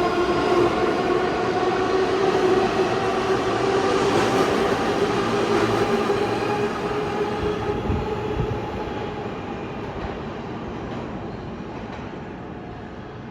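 New York City subway train pulling out of the station: its motors give a loud whine of several tones that rises slightly in pitch over rolling rumble, then fades away from about halfway through as the train leaves.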